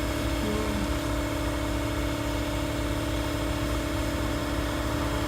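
Air compressor motor running steadily, refilling a tank that has run low on air for the air tools.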